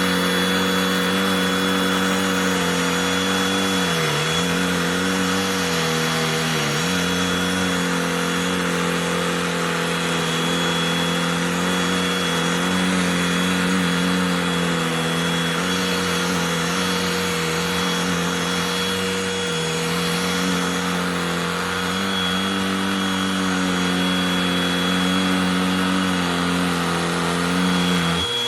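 Cordless handheld vacuum running steadily, with a motor hum and whine. Its pitch sags briefly twice, about four and about six and a half seconds in.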